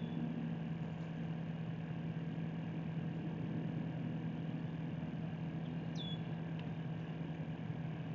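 A steady low engine hum that fades near the end, with a brief high chirp about six seconds in.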